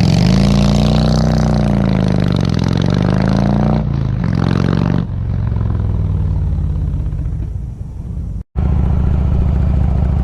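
Harley-Davidson Road King's V-twin engine running, its pitch rising and falling several times in the first few seconds as it revs and eases off. It then settles to a steady lower pitch, cuts out abruptly for a split second near the end, and comes back running evenly.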